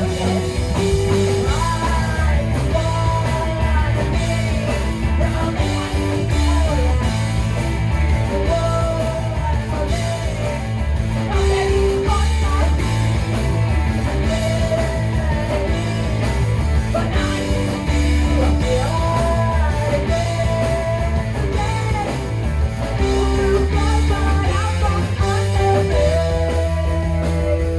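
Rock band playing live: guitars, bass and drums under a sung melody, with a steady driving beat.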